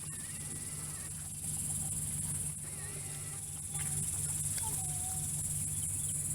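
Insect chorus outdoors, a steady high-pitched buzzing that swells louder twice.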